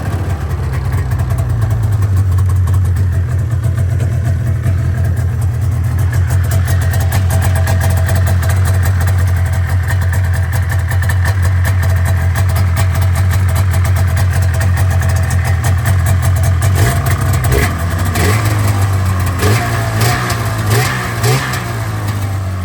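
1989 Polaris Indy 500 snowmobile's two-stroke engine idling steadily after a cold start without choke, its idle wavering a little near the end.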